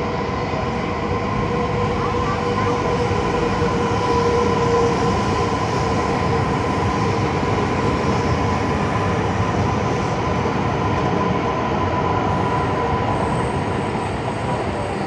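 Long electric train running along the tracks: a steady loud rumble of wheels on rail, with a held whine that fades out about ten seconds in.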